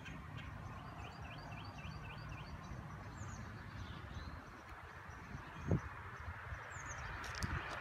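Small birds chirping over a low steady rumble, with a quick run of about seven chirps a second or two in. A single thump a little before the end is the loudest sound.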